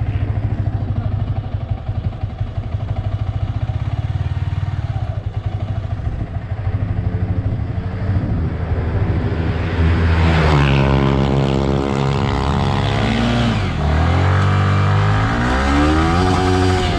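Yamaha R15 V3's 155 cc single-cylinder engine idling with a steady pulse, then, about ten seconds in, revving up as the bike pulls away. Its pitch climbs, drops back at two upshifts near the end, and climbs again each time.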